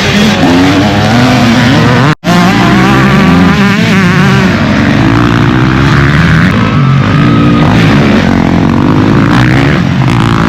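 Dirt bike engines revving up and down as the bikes ride, with the pitch rising and falling constantly. The sound cuts out for a split second about two seconds in.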